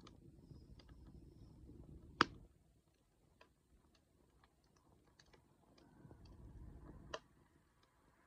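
Wood fire crackling softly, with scattered small ticks and two sharp pops from the burning wood, the louder about two seconds in and another near the end. A soft low rumble of the flames comes and goes before each pop.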